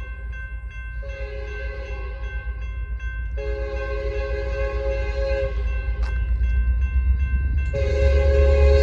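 Air horn on the lead BNSF GP60M-3 diesel locomotive sounding for a grade crossing: a long blast, a second long blast, then a third starting near the end. Underneath, the locomotive's diesel rumble grows steadily louder as the train approaches.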